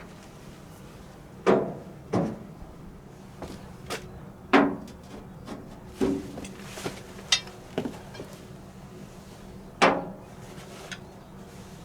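Irregular knocks on iron workpieces, about six loud strikes spaced a second or more apart with quieter taps between, some leaving a brief ring.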